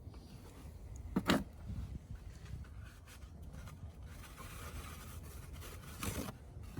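Aerosol can of CRC battery cleaner spraying onto corroded battery terminals: a short spray about a second in, fainter spraying through the middle, and another burst near the end.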